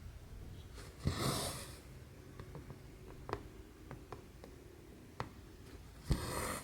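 Embroidery thread drawn through cross-stitch canvas, twice: each pull starts with a click and runs as a half-second hiss. Light ticks of the needle fall between the two pulls.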